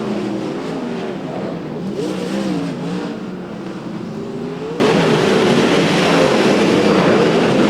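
Dirt-track race car engines revving as the cars lap a clay oval, their pitch rising and falling. About five seconds in, the sound jumps abruptly to a louder, denser pack of engines.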